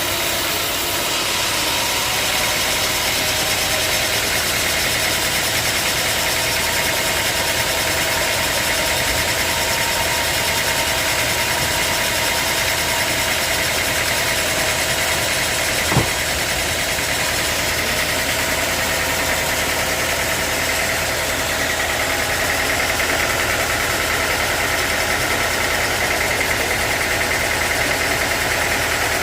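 A sawmill's engine running steadily, with a single sharp knock about halfway through.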